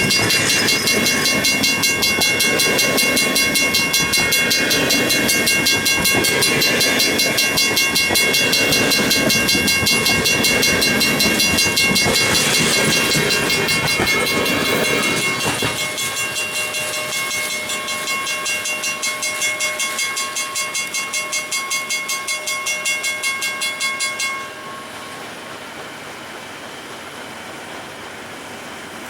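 Freight cars rolling and rattling past a grade crossing while the crossing bell rings rapidly and steadily. The rolling noise drops away about two-thirds of the way through as the end of the train passes, and the bell stops a few seconds later, leaving only light wind.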